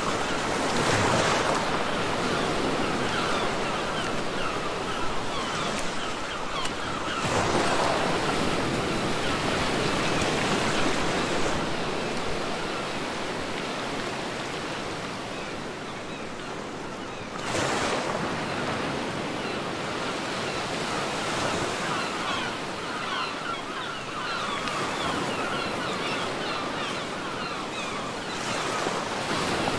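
Sea waves breaking on a beach: a steady rush of surf with a fizzing wash of foam, swelling with four larger breaks, about a second in, near eight seconds, near eighteen seconds and near the end.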